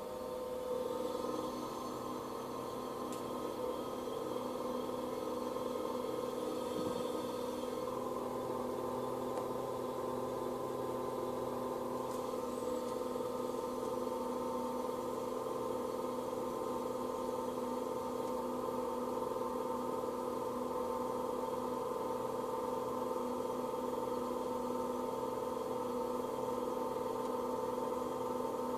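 Opel Astra G air-conditioning system running with a steady humming whine of several tones, the odd noise the owner is documenting. It comes up at the start and then holds without change.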